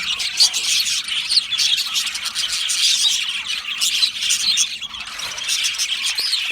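A colony of budgerigars chirping and squawking together, a dense, continuous chatter of many overlapping short calls.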